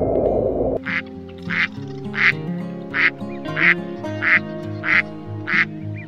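Duck quacking: about eight short quacks in an even, regular series, over background music. For the first second a steady low rushing noise plays, then stops suddenly as the quacking begins.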